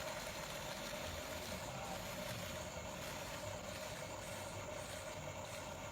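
A motor running steadily with an even hum, like a vehicle engine idling.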